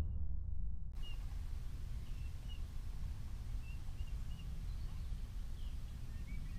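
Faint, scattered chirps of small birds calling over a low, steady outdoor rumble. The rumble starts about a second in.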